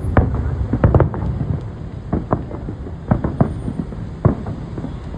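Fireworks going off: an irregular series of sharp bangs and pops, some in quick succession, over a steady low rumble.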